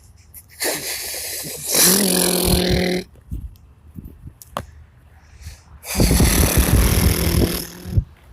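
Rear-mounted Cummins diesel of a Blue Bird All American RE school bus being cranked by its starter, heard from the driver's seat at the front: two cranking bursts of about two seconds each, the first about a second in and the second about six seconds in, after which the engine has started and runs only faintly from the back.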